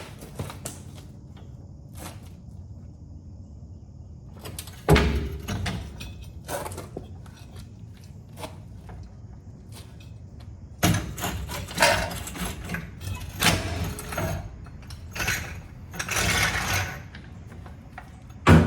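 Irregular knocks and clatter from hand work on a truck's front suspension, with a sharp knock about five seconds in and a busy run of knocks in the second half, ending on a sharp loud knock.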